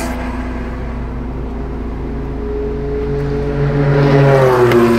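Porsche 968's 3.0-litre inline-four idling steadily with the car stopped, a little louder in the last second or so, with a short click near the end.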